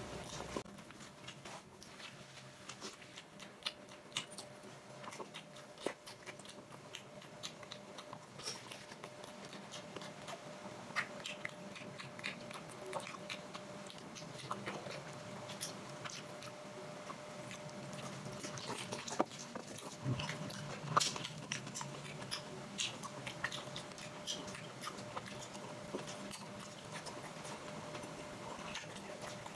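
Close-miked chewing and eating: wet mouth smacks and small clicks come irregularly, busier in the second half. A faint steady hum runs underneath.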